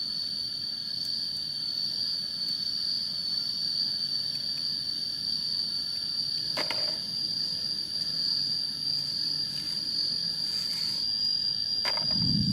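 Steady, high-pitched insect drone from the surrounding vegetation, with two light knocks, one about halfway through and one near the end.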